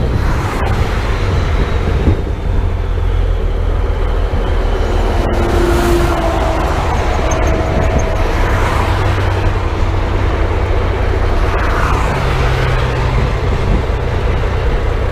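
Heavy truck's diesel engine and road noise while cruising at a steady speed: a continuous low drone with no change in engine speed.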